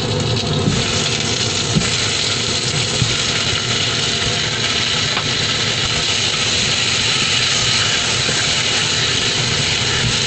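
Chicken wings sizzling in hot oil with browned ginger in a saucepan as they are laid in: a loud, steady hiss that grows brighter about a second in, with a couple of light taps.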